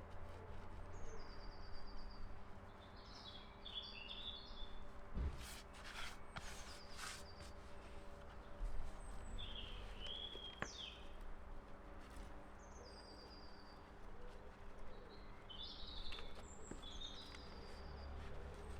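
Songbirds singing in short repeated chirping phrases, several times over a steady low background rumble, with a few faint clicks a little past the middle.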